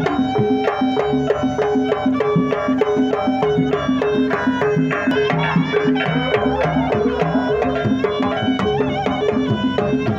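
Javanese jaranan pegon accompaniment music: a steady, evenly repeating pattern of short pitched notes over drums and percussion.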